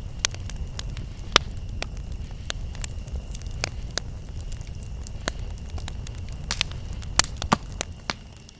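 Campfire crackling, with sharp pops at irregular moments over a low rumble. A steady high insect tone runs behind it. The whole sound dips quieter near the end.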